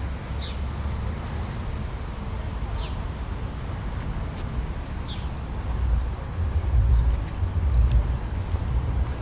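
Low rumble of distant traffic that swells for a couple of seconds about two-thirds of the way through, with a bird giving short high chirps every couple of seconds.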